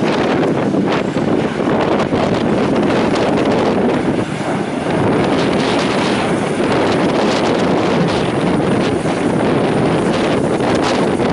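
Strong wind buffeting the microphone, mixed with the steady engine noise of an aircraft.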